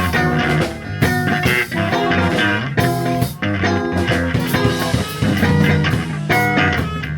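Instrumental reggae band playing: electric guitar, bass guitar and drums in a steady groove, with horn lines.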